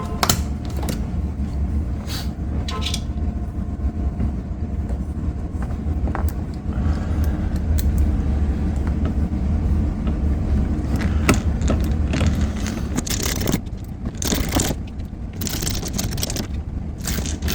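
Clicks, knocks and scraping from a Land Rover's door panel and its screws being handled and fitted, over a steady low hum. The scraping is heaviest near the end.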